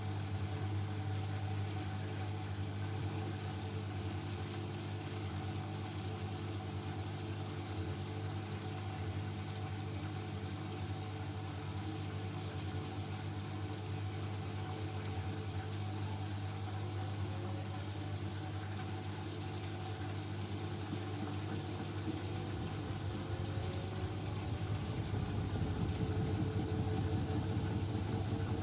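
Arçelik 9123 N washing machine in its spin cycle: a steady low motor hum, then rising whines as the drum speeds up, with a low rumble and rattle that grows louder over the last few seconds. The owner calls it an unbalanced spin.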